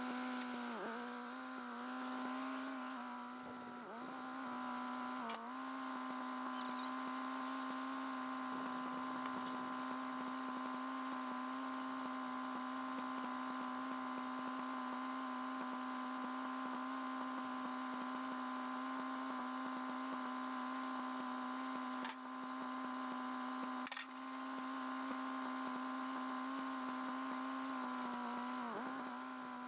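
Engine running at a steady speed, heard faint, a humming drone whose pitch sags briefly a few times as if under momentary load, with a couple of soft knocks.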